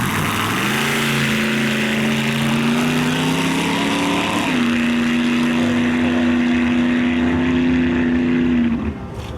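Front-engine dragster's engine under power on a shakedown pass. A loud, steady note climbs slowly in pitch, drops once about four seconds in, holds steady, and cuts off just before the end.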